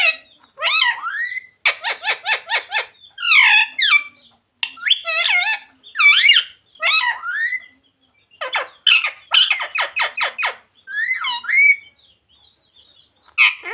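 Indian ringneck parrot (rose-ringed parakeet) squawking and screeching in quick runs of short, harsh calls that sweep up and down in pitch, with brief pauses about eight seconds in and again near the end.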